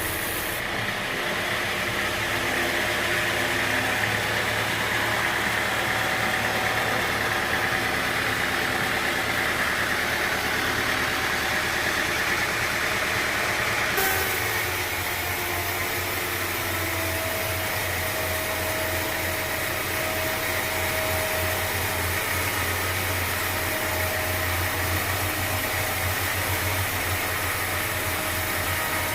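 Sawmill machinery running steadily with an even hum and a few held tones; the sound changes abruptly about halfway through.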